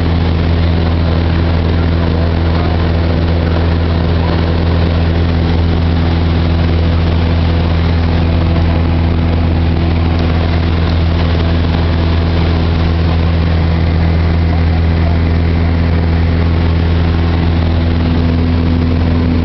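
Cessna 172's piston engine and propeller running steadily in cruise flight: a constant loud, low drone with a wide rushing noise over it.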